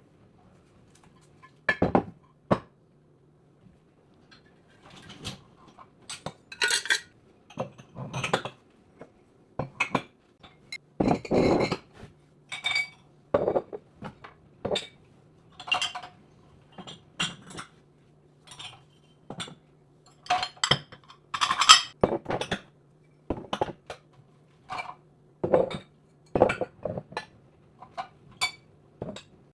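Dishes and cutlery being handled, clinking and clattering in separate knocks about once a second, some with a short bright ring.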